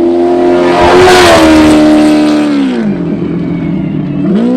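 A Class 1 desert race buggy's engine running at high revs as it passes, with a loud rush of noise at its closest about a second in; the revs drop near three seconds and climb again sharply near the end.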